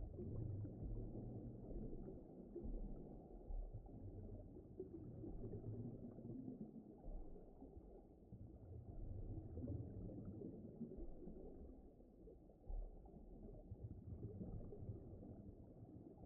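Deep underwater ambience: a muffled, low rumbling wash that swells and fades every few seconds, with no clear sounds above it.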